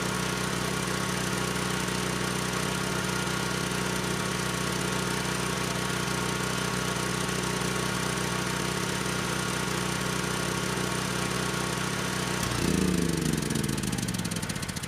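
Sportsman 9000-watt portable generator's engine running steadily. About twelve seconds in it is shut off and winds down, its hum falling in pitch as it fades.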